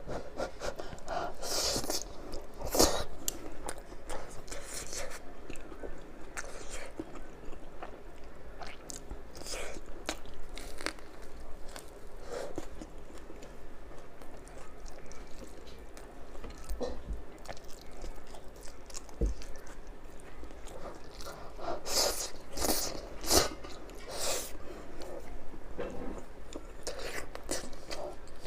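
Close-miked eating: a person biting and chewing crisp, crunchy food, with irregular crackling crunches. The crunches come in louder clusters near the start and again about three-quarters of the way through.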